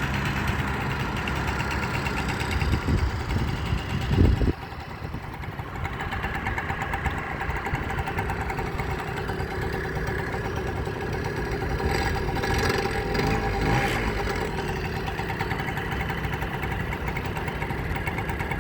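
Small gasoline engine of a Japanese motorized bicycle running steadily. It rises briefly about four seconds in, then drops back to a lower, even running sound.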